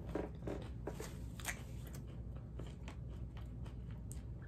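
Close-up chewing of a crunchy hard-shell ground beef taco: a run of small crisp crunches, closest together in the first second or two and thinning out toward the end.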